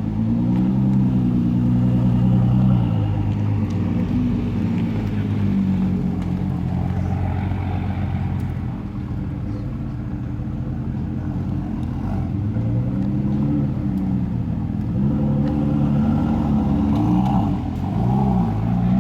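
Supercar engine running at low speed with a deep rumble, its pitch rising and falling several times as it is revved while the car pulls away; the revs climb near the start and again in the last third.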